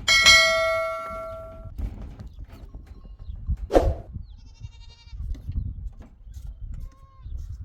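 A sharp metallic clang that rings on with several tones, fading over about a second and a half. A short bleat from the flock comes about halfway through, over a low rumble of wind and handling.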